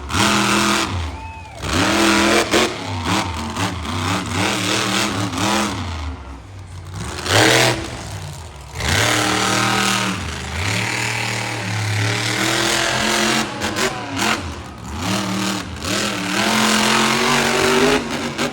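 Monster truck engine revving hard, its pitch climbing and falling again and again, with short lifts off the throttle.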